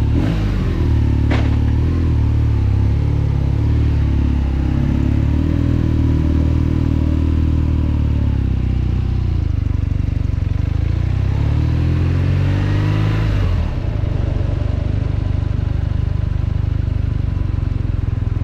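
BMW R nineT's air-cooled flat-twin boxer engine running just after being started, at a steady fast idle. Its pitch dips about nine seconds in, climbs again to a peak near thirteen seconds, then gives way to a steadier low rumble.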